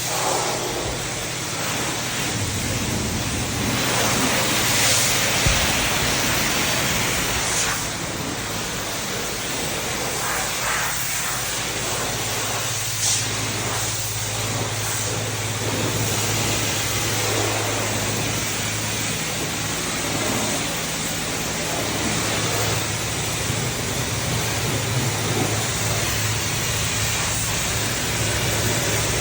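High-pressure wand of a self-serve car wash spraying water onto a car, a steady hiss over the low hum of the pump.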